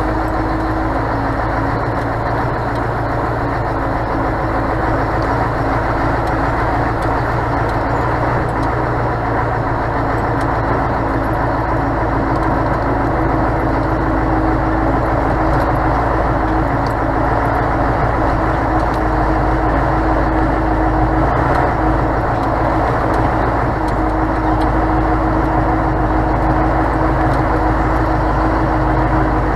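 Scania truck's diesel engine running with a steady, unchanging drone and low rumble.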